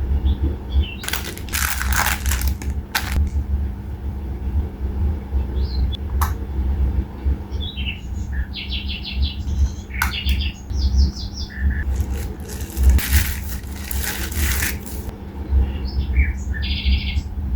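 Small birds chirping in short, rapid trilled phrases, several times over, against a steady low rumble, with two spells of brief rustling noise, near the start and past the middle.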